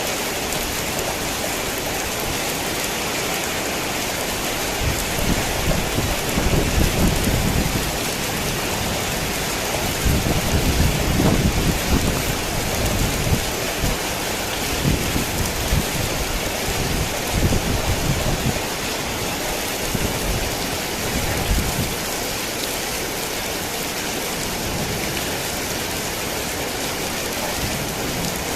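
Heavy rain falling in a steady hiss. A low rumble of thunder rolls through the middle, swelling and fading over about fifteen seconds.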